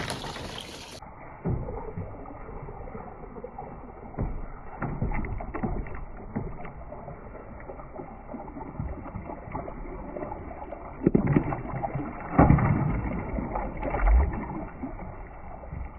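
Marbles rolling and knocking along a water-filled marble run, with water sloshing and splashing around them. The sound is muffled and dull, with a louder stretch of clattering knocks near the end.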